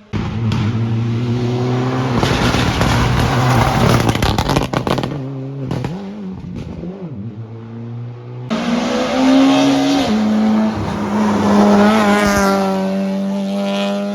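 Rally car engines at high revs on a stage, the pitch rising and falling through throttle changes and gearshifts. The sound changes abruptly about eight seconds in to another car, which is louder and higher-pitched.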